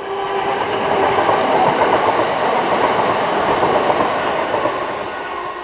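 Class 379 Electrostar electric multiple unit passing close by, its wheels rushing and clattering on the rails. The noise swells in the first second, holds loud through the middle and eases off as the train draws away.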